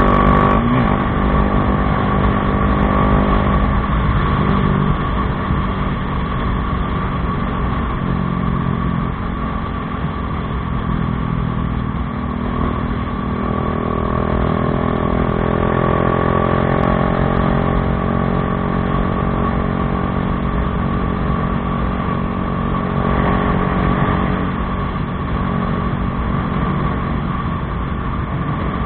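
Bajaj Dominar 400's single-cylinder engine running through an Akrapovič aftermarket exhaust, its note rising and falling with the throttle several times.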